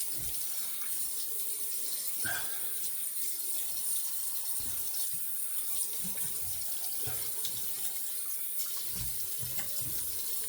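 Tap water running steadily into a sink as the face is rinsed off after a shave, with irregular low splashes and knocks.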